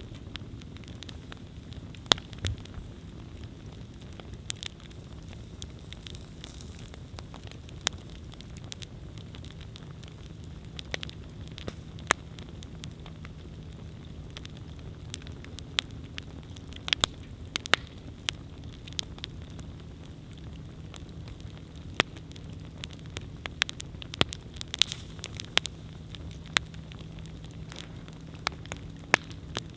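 Wood campfire burning: a steady low rumble of flames with irregular sharp crackles and pops, coming more often in the second half.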